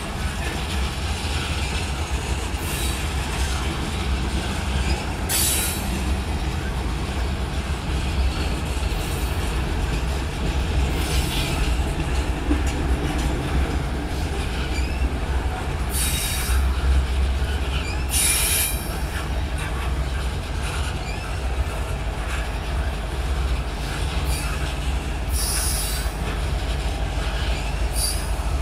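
Freight train of covered hopper cars rolling past: a steady low rumble of wheels on rail, broken every few seconds by a brief high-pitched squeal, about five times.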